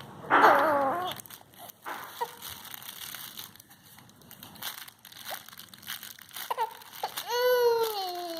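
Baby girl vocalizing: a short wavering squeal in the first second, then a long drawn-out coo near the end, with soft handling rustle and clicks in between.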